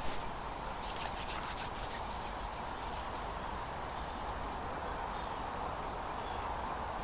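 Steady rush of flowing river water, with a brief run of quick scratchy rubbing strokes, about four a second, between about one and three seconds in.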